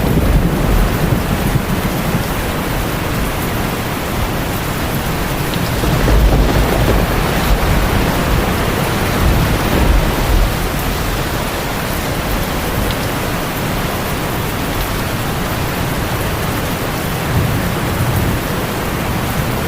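Heavy rain drumming steadily on a tin roof, with low thunder rumbling up several times: near the start, around six seconds in, around ten seconds in and again near the end.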